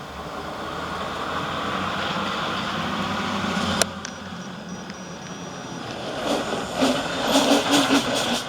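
Bobbed 5-ton military truck's diesel engine running and growing steadily louder for the first few seconds, then a sharp click. Near the end comes a run of uneven short knocks and bursts.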